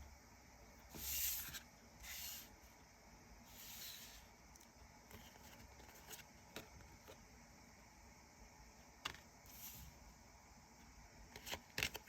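Tarot cards being handled: several brief faint swishes of cards sliding, and a few light ticks, the sharpest near the end.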